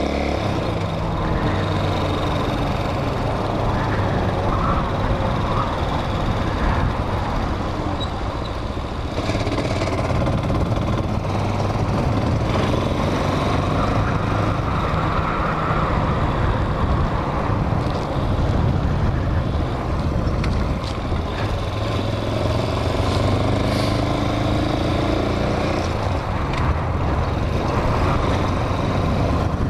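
Hawk 250 dual-sport motorcycle engine running under way, its pitch rising and falling with the throttle, under steady wind noise on the microphone.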